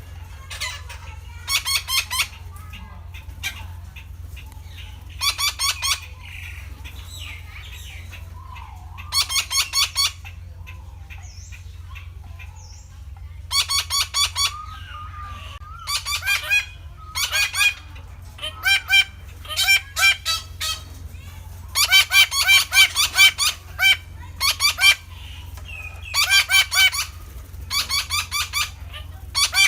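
Red-breasted parakeets calling: harsh notes given in quick bursts of several at a time, about a dozen bursts with short gaps between them, over a steady low hum.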